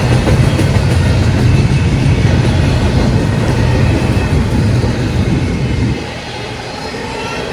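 Freight train passing close by: a steady low rumble of engines and rolling cars, which drops off for a moment near the end and then picks up again.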